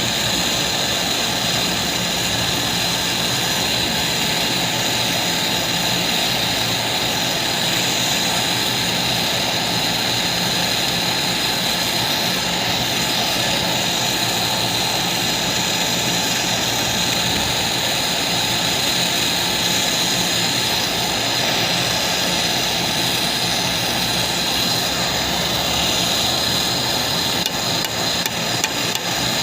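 Loud steady mechanical noise with a constant high hiss, and a few short clicks near the end.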